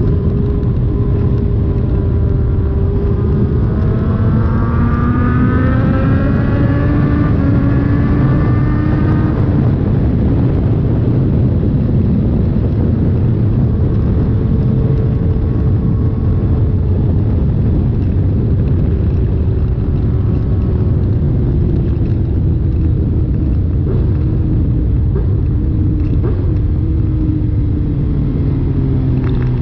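Suzuki GSX-R1000's inline-four engine running through an SC Project exhaust with the catalytic converter removed: a loud, steady deep rumble. Its note climbs gradually for several seconds near the start, then settles and eases slowly down.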